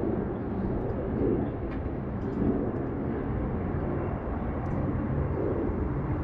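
Steady low rumble of outdoor city background noise, like distant traffic, with a few faint high ticks scattered through it.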